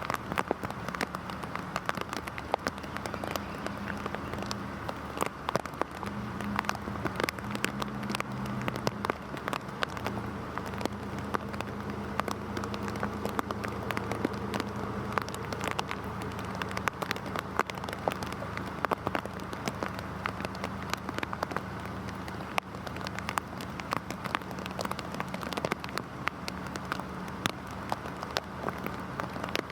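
Heavy rain falling, with many separate drops striking close by and crackling over a steady wash of rain noise. A faint low steady hum runs underneath.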